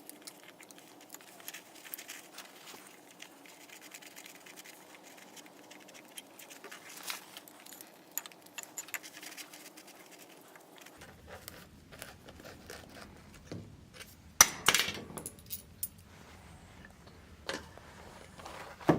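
Scattered small clicks and clinks of metal and plastic carburetor parts and hand tools being handled while the carbs are taken apart, with a louder cluster of knocks about fourteen and a half seconds in.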